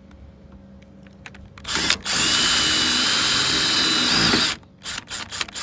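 Handheld power tool running in one burst of about two and a half seconds, with a brief stutter at the start and a slight rise in pitch just before it stops. It is followed by a few short clicks or knocks.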